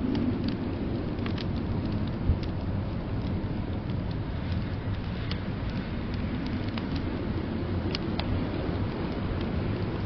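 Wood fire crackling in a fireplace, sparse sharp pops a second or two apart, over a steady low rumble of blizzard wind.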